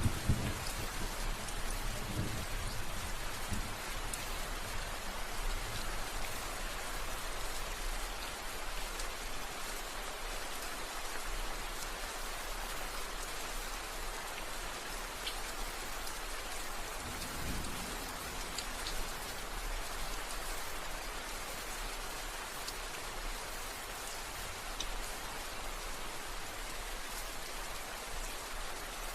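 Steady rain falling, with brief low rumbles of thunder in the first few seconds and again about halfway through.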